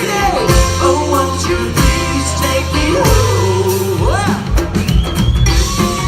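A band playing a bluegrass-style rock cover, with a steady bass and drum beat and singing over it.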